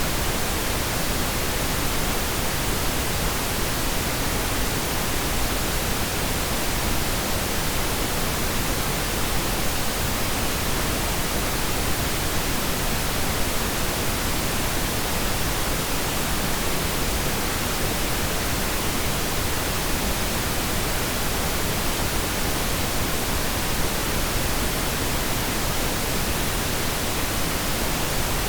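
Steady pink noise: an even, unchanging hiss with no separate sounds in it.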